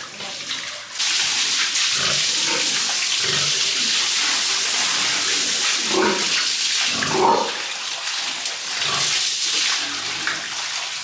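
Steady rush of sprayed water starting suddenly about a second in, with pigs grunting under it, most clearly around six and seven seconds.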